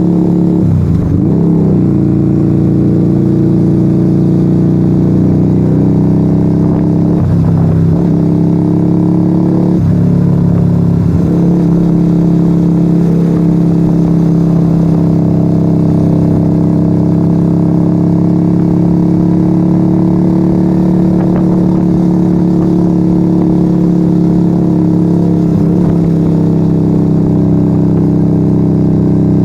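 1997 Yamaha XV125 Virago's small air-cooled V-twin running through a straight-pipe Turbo Kit exhaust with no dB killers, on the move. The revs dip and climb back a few times in the first ten seconds or so, then the engine holds a steady cruising note.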